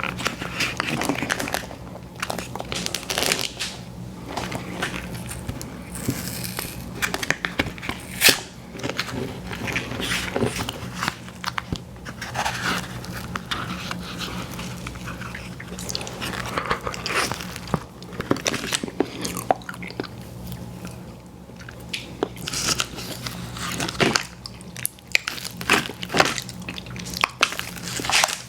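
Close-miked eating: bites into a crunchy pie crust followed by chewing, with irregular crisp crunches and wet mouth sounds.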